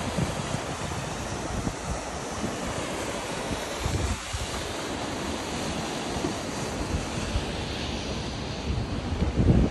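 Steady rush of splashing water, with wind buffeting the microphone in low gusts, strongest just before the end.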